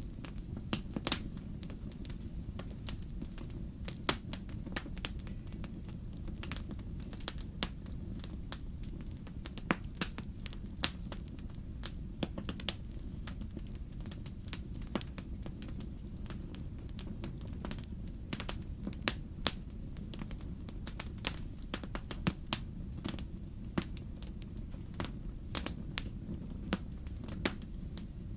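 Fireplace wood fire crackling: irregular sharp pops and snaps over a steady low rumble.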